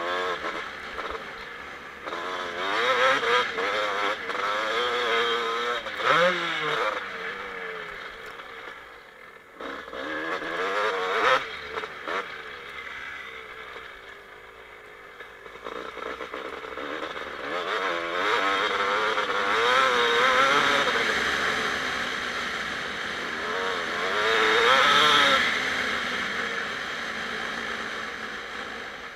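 2007 Kawasaki KX250 two-stroke single-cylinder motocross engine riding a lap, revving up and backing off again and again, with its loudest pulls about 3, 6, 11, 20 and 25 seconds in.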